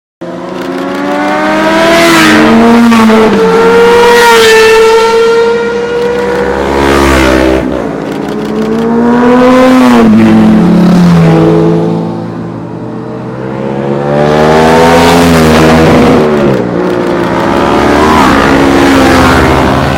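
Motorcycles riding past one after another, their engines revving and then dropping in pitch as each goes by, in about four loud passes.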